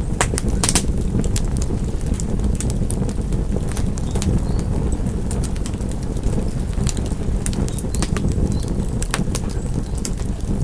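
Wood fire in a fireplace crackling: a steady low rumble from the flames with frequent irregular sharp pops and snaps, the loudest few in the first second.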